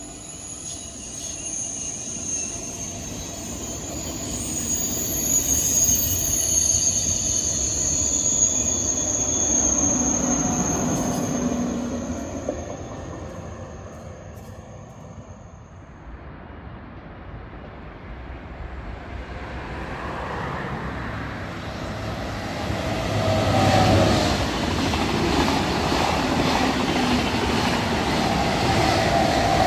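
A train running past on the rails, with a high steady wheel squeal over the rolling noise that stops a little past halfway. The rolling noise then fades and builds up loud again as more train passes.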